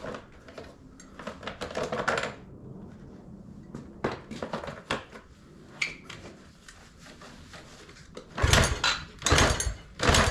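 Handling noises from work on a small dirt bike: scattered clicks and rattles, then three loud, heavy thumps about a second apart near the end. The engine is not running.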